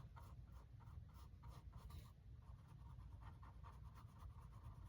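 Faint, quick paintbrush strokes laying on acrylic paint, about three short scratchy strokes a second.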